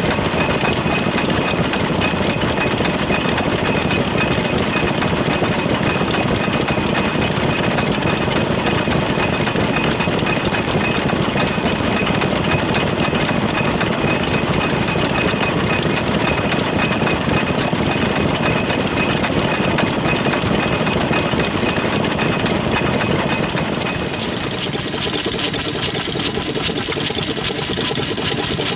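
Vintage Japanese stationary engines (hatsudōki) running steadily, a dense mechanical clatter. About 24 seconds in, the sound changes and drops slightly in level.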